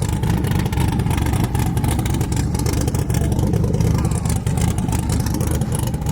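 Truck engine running steadily at close range, a loud, even rumble with a rough, rapid clatter through it.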